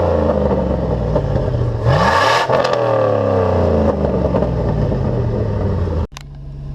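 Chevrolet Silverado's 5.3-litre V8 with headers, revved twice: the first rev dies away at the start, and a second quick rev about two seconds in falls back to a loud idle. Near the end the sound cuts suddenly to a quieter, steady engine hum.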